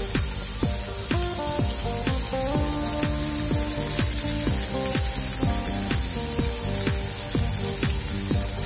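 Flour-battered enoki mushrooms deep-frying in hot oil with a steady sizzle, under background music with a steady beat.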